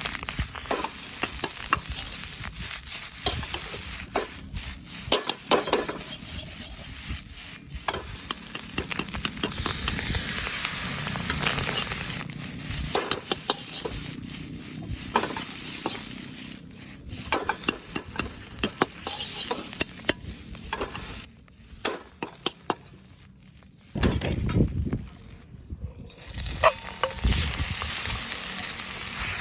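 Food sizzling as it fries in a wok, stirred with a utensil that clicks and scrapes against the pan, with a quieter pause about three-quarters of the way through.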